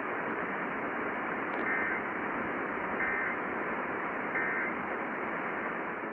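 Weather radio receiver hissing with static, with three short warbling data bursts about a second apart: the Emergency Alert System end-of-message code marking the end of the warning. The audio cuts off just after.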